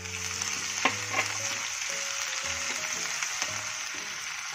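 Grated ginger and garlic sizzling in hot mustard oil in a non-stick kadai, stirred with a silicone spatula, a steady hiss with a couple of soft knocks about a second in.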